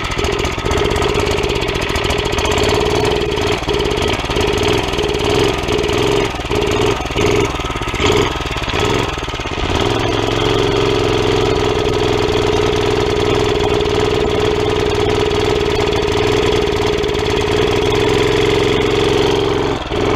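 Tecumseh single-cylinder engine on a Murray mini bike running. Through the first half it stumbles and cuts in and out repeatedly, then about halfway through it settles into a steady run. The hesitation is one that acts like it is starving for fuel, with the engine drawing cold air through a carburettor that has no air filter.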